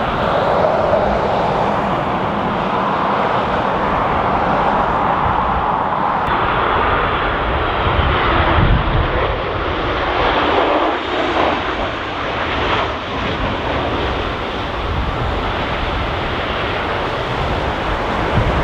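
Jet engines of a Boeing 737 MAX 8 coming in to land, a continuous rushing whine, with gusty wind rumbling on the microphone.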